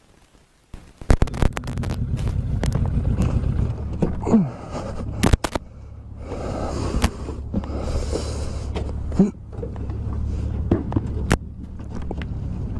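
Motorcycle riding on the road: after a brief near-silent gap, a steady low engine hum with road and wind noise, broken by several sharp clicks and two short drops in pitch.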